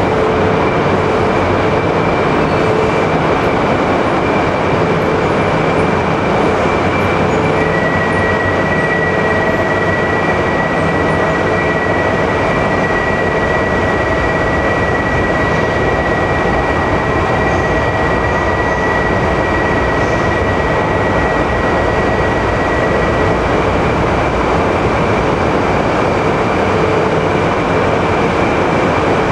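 A JR East 200 series Shinkansen train rolls slowly along an underground platform and comes to a stand, then stands with a steady, loud mechanical noise. A thin high steady whine joins in about eight seconds in and stops a little past twenty seconds.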